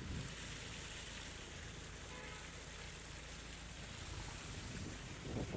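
Heavy rain falling, a steady hiss over a low rumble, with a few louder low thuds near the end.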